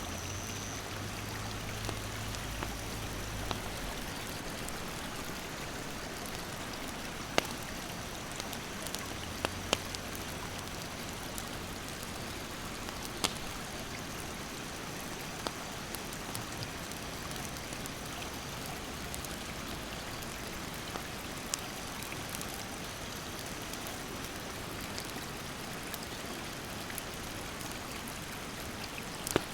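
Steady rush of a mountain stream, with a wood campfire crackling: single sharp pops every few seconds over the water noise. A faint, steady, high insect buzz runs beneath.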